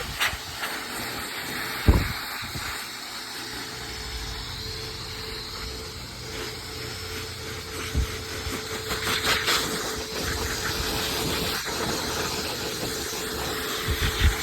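Electric livestock grooming blower running steadily on a lamb's fleece, a steady whine over a hiss of air. A sharp thump comes about two seconds in and a smaller one about eight seconds in.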